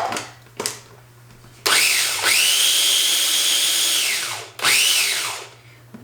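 Blender motor run twice to whip a mayonnaise dressing smooth: a first run of about two and a half seconds that spins up to a steady high whine and winds down, then a short second pulse that rises and falls. A couple of clicks come before it.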